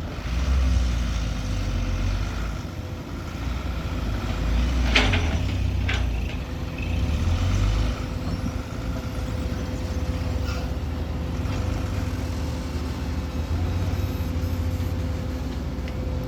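Truck engine running with a deep steady rumble, with a few short clicks or knocks over it.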